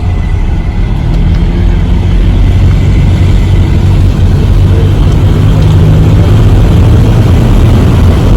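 Car being driven, heard from inside the cabin: a steady low rumble of engine and road noise that grows a little louder about a second in.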